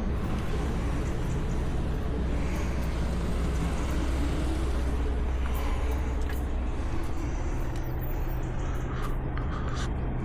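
Scania V8 truck engine running with a steady low drone. Its tone shifts about five seconds in, and a few light clicks come near the end.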